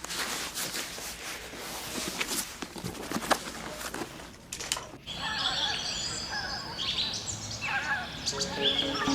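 Birds chirping and singing in short rising and falling phrases, starting about halfway through, over a faint noisy background with scattered clicks.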